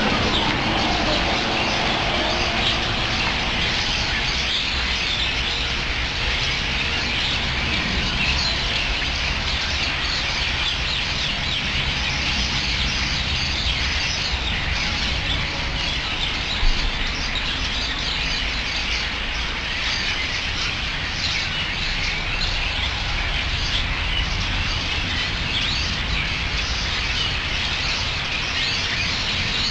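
A large flock of birds chirping all at once: a dense, unbroken chatter of overlapping calls, over a steady low rumble.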